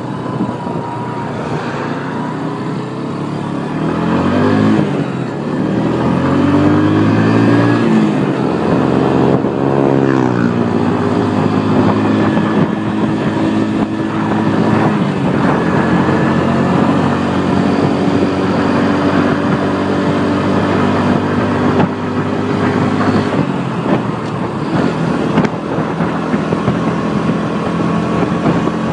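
Bajaj Boxer BM 125 X motorcycle's single-cylinder engine under way. Its note rises and falls several times in the first ten seconds or so as it accelerates, then runs at a mostly steady pitch.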